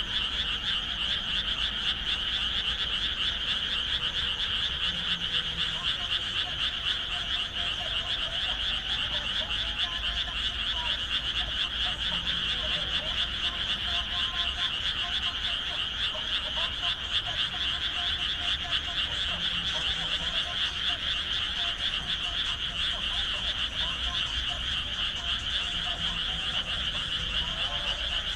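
Dense, continuous chorus of frogs calling in rice paddies, a steady mass of rapid overlapping calls with a high, shrill edge and fainter lower croaks scattered through it.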